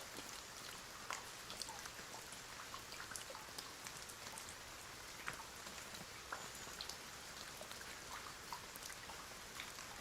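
Steady rain, a soft even hiss with many individual drops ticking irregularly on a surface.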